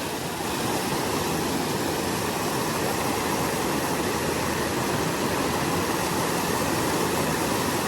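Creek water rushing steadily over a small waterfall, an even unbroken rush.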